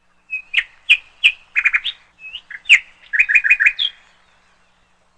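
A small bird chirping: a lively run of short, sharp, high notes, some single and some in quick clusters of three or four, lasting about four seconds.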